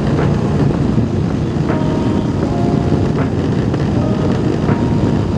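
Motorcycle running at a steady road speed, with wind rushing over the microphone. A short click sounds about every second and a half.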